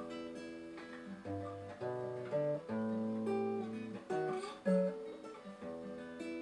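Acoustic guitar playing the introduction to a bard song: chords strummed and picked, each left to ring, changing every second or so.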